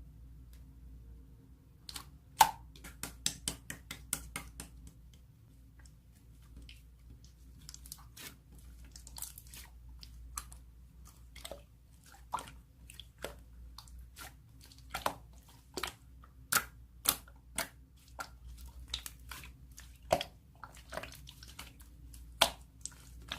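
Slime being squeezed and pressed by hand, making irregular sharp pops and clicks that start about two seconds in.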